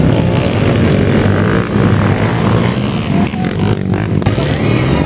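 Small-displacement enduro dirt bike engines running and revving, the pitch rising and falling with the throttle.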